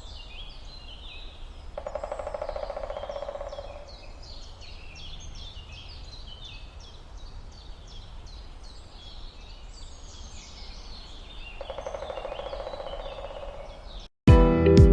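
A woodpecker drumming twice, each roll of rapid strikes lasting about two seconds, over a dense background of small birds chirping. Loud guitar music cuts in right at the end.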